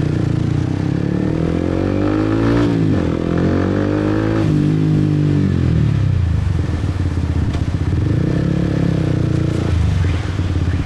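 Motorbike engine riding through traffic: its pitch rises twice with a sharp drop between, as on a gear change, eases off about five seconds in, and picks up again near the end.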